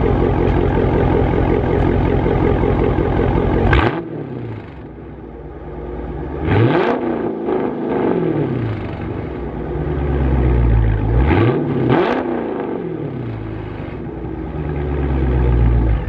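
2018 Dodge Charger Scat Pack's 392 (6.4-litre) HEMI V8 through its stock exhaust tips. It runs loud and steady, drops sharply to a lower idle about four seconds in, and is then revved twice, each rev rising and falling quickly, about six and a half and twelve seconds in. The idle swells again near the end.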